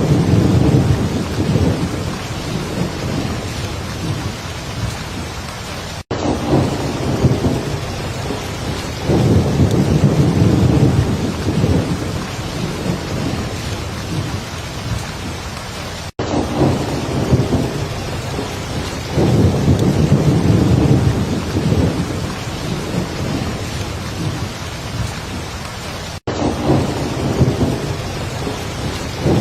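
Heavy rain falling steadily, with low rolling rumbles of thunder swelling up every few seconds. The sound cuts out for an instant about every ten seconds.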